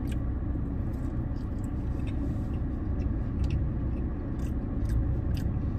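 A person chewing and biting into a chicken wing, with short scattered mouth clicks, over a steady low rumble from the car.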